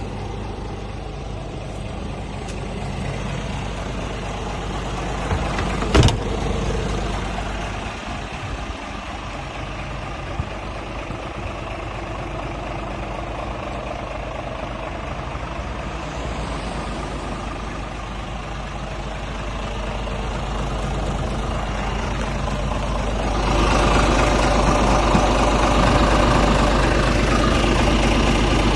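Scania R450 truck's 13-litre inline-six diesel running steadily. A sharp knock about six seconds in, and the engine gets louder about three-quarters of the way through.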